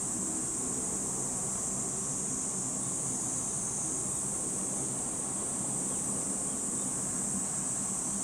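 Distant C-130H Hercules turboprops running on three engines while taxiing, a steady low drone of even tones, under a steady high-pitched insect buzz.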